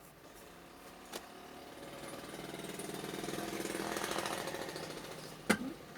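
A rapid rattling buzz, like a small handheld power tool, swelling over a couple of seconds and then fading, with a click about a second in and a sharper click near the end.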